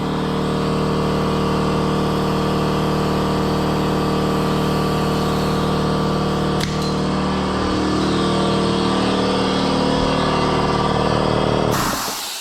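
A motor on cleaning equipment running with a steady hum, then cutting off near the end.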